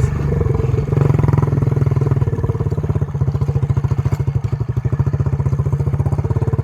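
SSR 125 pit bike's single-cylinder four-stroke engine idling steadily, with an even, fast exhaust pulse.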